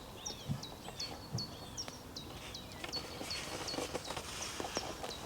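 A small bird calling a short, high note over and over, about twice a second; each note slides down and then holds briefly. Faint scattered clicks and light knocks run alongside.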